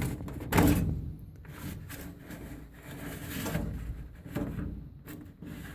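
A furnace air filter being pushed and scraped into its tight slot in the furnace cabinet, with rubbing and several knocks, the loudest about half a second in.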